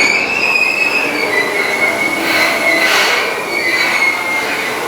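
Commuter train moving along the station platform, its wheels squealing with a high, wavering tone over the steady rumble of the cars.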